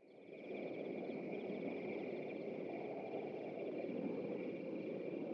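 Insects trilling steadily, a high continuous chirring with a faint pulsing above it, over a low steady rush of open-air ambience; it fades in at the start.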